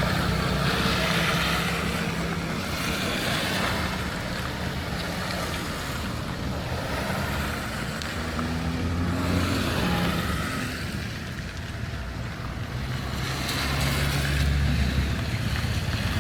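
Street traffic: vehicle engines running and the tyre noise of passing cars, swelling and fading several times.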